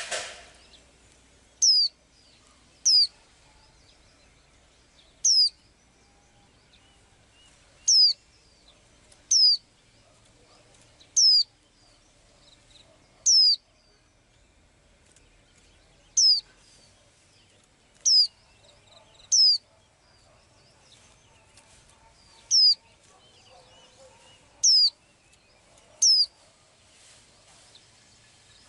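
A small bird calling over and over: about thirteen short, high, downward-sliding whistled notes, one every one to three seconds at an uneven pace. A brief knock comes right at the start.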